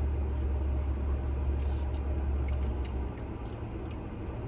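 Low steady rumble of a car heard from inside the cabin, which drops away about three seconds in, with a few light clicks and rustles over it.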